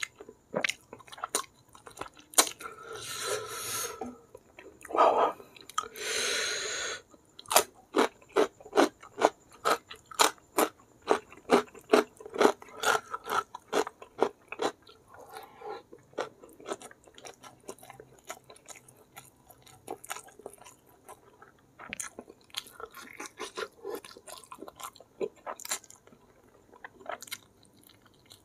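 Close-miked chewing of a mouthful of rice and mutton curry eaten by hand, with crunchy chews at about two to three a second that thin out towards the end. Two longer noisy mouth sounds come in the first seven seconds.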